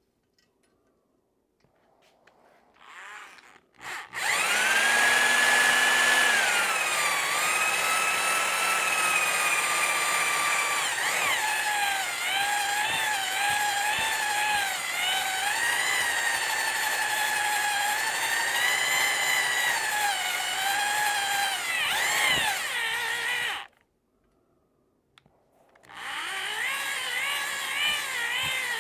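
A cylinder hone spun by a power drill works inside an outboard's cylinder bore, opening the bore toward its oversize. It runs with a loud whine that wavers in pitch as the hone is moved up and down. The whine starts about four seconds in, stops for about two seconds near the end, then starts again.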